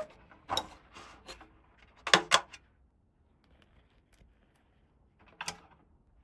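Small plastic toy pieces being handled, giving a few light clicks and taps. Two sharp clicks come about two seconds in, then it is mostly quiet until one more click near the end.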